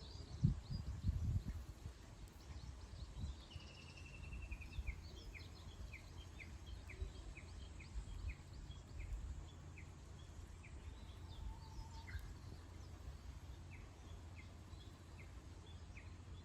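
Wild birds chirping faintly: short high notes repeated about twice a second, with a brief trill a few seconds in, over a steady low rumble. A few low bumps sound in the first second or so.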